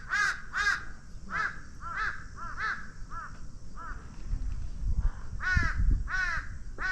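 Crows calling: a series of short, harsh caws, one every half second or so, pausing briefly and then starting again in a quicker run near the end.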